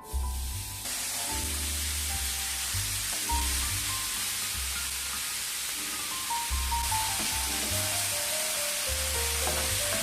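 Food frying in a hot pan: a steady sizzle, with soft melodic background music underneath.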